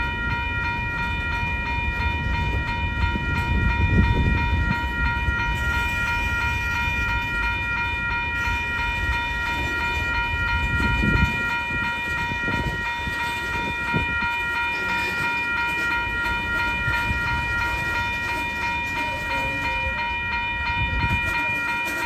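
Slow or stopped freight train: a low, uneven rumble of railcars, with a steady high ringing tone over it.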